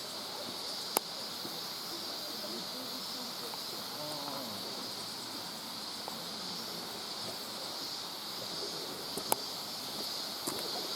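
Steady high-pitched hiss of outdoor ambience. It is broken twice by a sharp click from the old video camera's loose monitor, about a second in and near the end.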